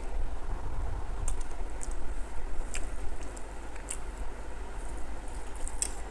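Close-up eating sounds: scattered short wet mouth clicks and chewing, over a steady low rumble.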